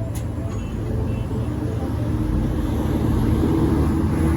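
Car cabin noise while driving: a steady low engine and road rumble that slowly grows louder, with a brief click just after the start.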